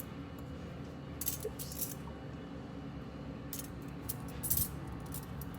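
Small metal grooming tools clinking against each other and a hard surface as they are handled, in a few short clusters of clicks.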